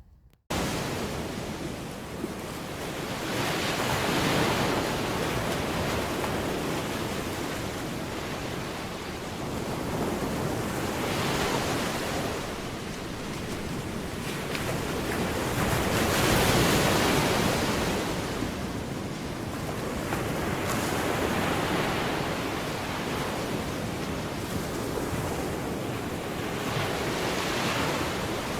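Ocean surf breaking on a shore, the rush of water swelling and falling back every five or six seconds, with some wind on the microphone.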